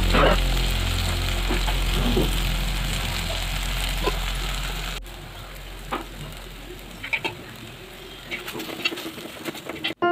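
Onions, tomatoes and spices frying in oil in a clay pot: a steady sizzle with a few sharp taps and scrapes of a spoon against the pot. The sizzle drops away suddenly about halfway through, leaving quieter scattered clicks.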